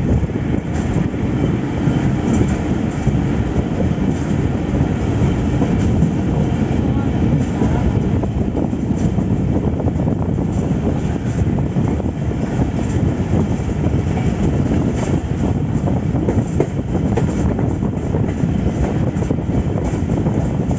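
Moving passenger train running along the track: a steady rumble of wheels on rails with scattered light clicks.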